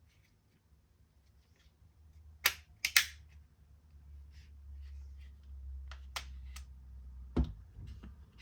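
Sharp, irregular plastic clicks and snaps from handling the Wera Tool-Check Plus bit set case, with a loud cluster about two and a half seconds in and a few more near the end over a low handling rumble.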